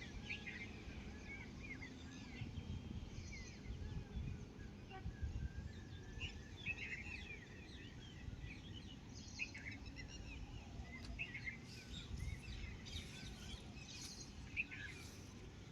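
Small birds chirping and calling, many short, quick chirps and trills overlapping, over a steady low rumble of background noise.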